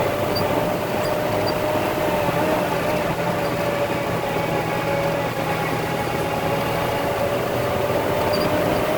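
Concrete mixer truck's diesel engine running steadily, with a steady whine that climbs slightly in pitch near the end. A faint high ticking comes about twice a second at the start and again near the end.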